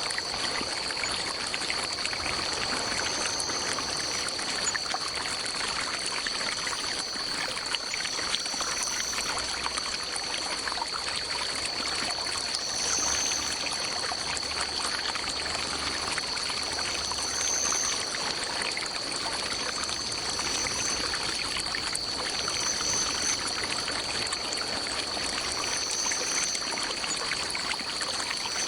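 Stream water flowing steadily over rocks, with a steady high-pitched drone above it and a higher call that comes and goes every few seconds.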